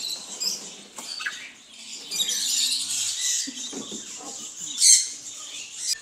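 Caged pet birds chirping and twittering together, a busy chatter of high calls that swells around the middle, with one louder, sharper call about five seconds in.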